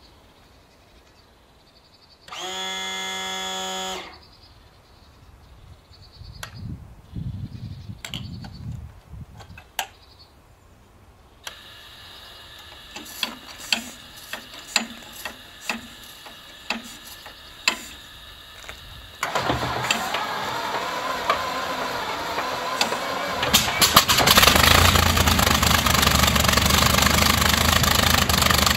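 Rolls-Royce Merlin V12 aero engine being started: a short steady tone, then cranking with irregular sharp firing pops. It catches with a jump in loudness and runs up to a continuous, louder run with a strong low hum. This is a cold first start after winter maintenance, with the propeller feathered.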